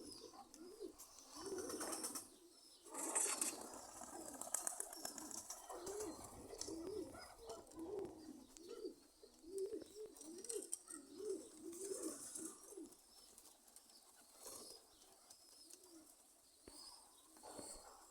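Domestic pigeons cooing over and over in short rising-and-falling coos, with a few brief bursts of wing flapping.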